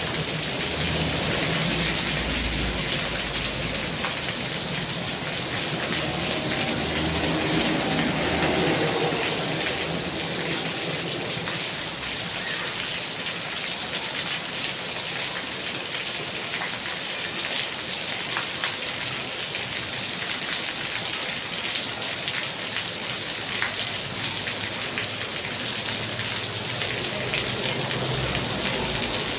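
Heavy rain falling steadily, a dense hiss of drops with scattered individual drop taps on hard surfaces, and a low rumble during the first few seconds and again near the end.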